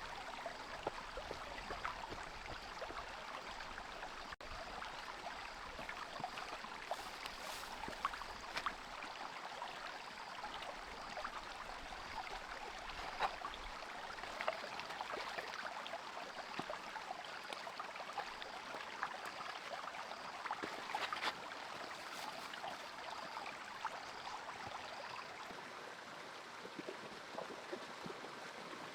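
Flowing, trickling water with many small splashes and crackles, and a faint high chirp repeating about twice a second through most of it.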